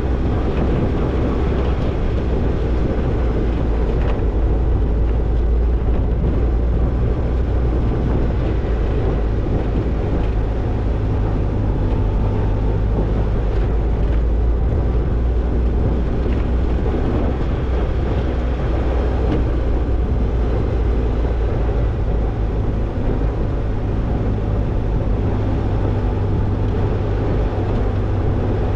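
Toyota Tercel 4WD wagon driving along a dirt trail: a steady low engine and drivetrain rumble with road noise, holding an even pace with no revving.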